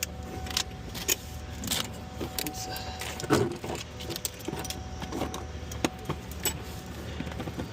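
Scattered metallic clinks and rattles of hand tools and engine parts being handled, with a faint steady hum underneath.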